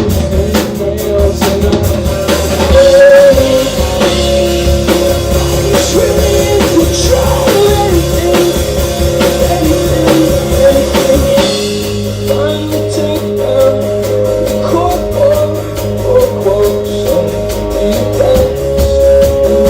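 Live rock band playing at full volume: a drum kit keeping a steady beat under sustained guitar chords. The drumming thins out about twelve seconds in.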